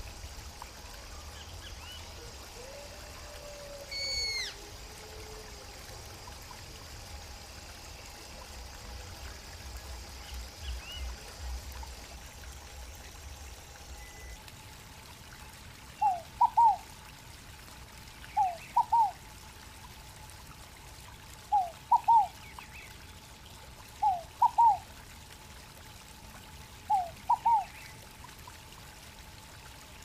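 Steady trickle of running water, with a few high descending bird whistles in the first half. In the second half a bird calls five times, each call a quick group of two or three short notes, about every two and a half seconds.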